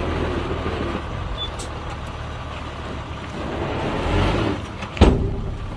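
Heavy diesel engine of construction machinery running steadily, swelling briefly about four seconds in, with one sharp loud bang just after five seconds.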